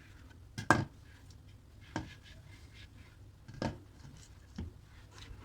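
Light knocks and clicks of kitchen items being handled and set down while a kitchen cabinet is cleaned, four separate knocks, the loudest under a second in.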